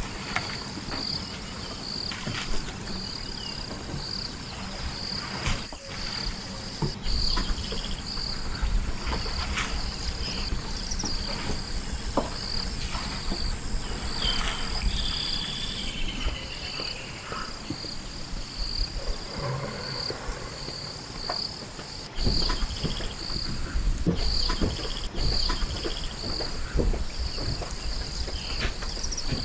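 A steady chorus of insects, rapid high-pitched pulsing trills that do not let up. A few short bird chirps come through, along with scattered clicks and stretches of low rumbling noise.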